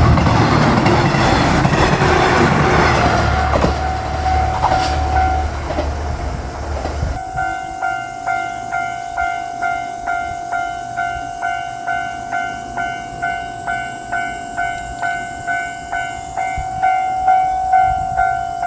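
185-series diesel limited express train passing over a level crossing with a loud, dense rumble and wheel clatter, the crossing bell ringing through it. The train noise cuts off suddenly about seven seconds in. After that the Japanese level-crossing bell is left dinging steadily, a little under two strikes a second.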